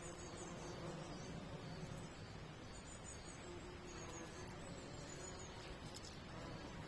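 Faint outdoor ambience of small creatures chirping, with thin, high, short chirps recurring every second or so over a low steady hum.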